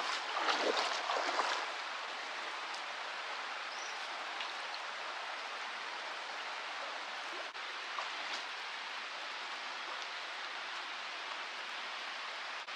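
Steady rushing of running water, with louder rustling or handling noises during the first second and a half and a few faint ticks after.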